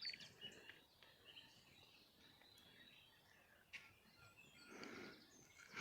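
Faint wild birdsong in a forest: scattered short, high chirps from several birds, with one faint click a little before four seconds in.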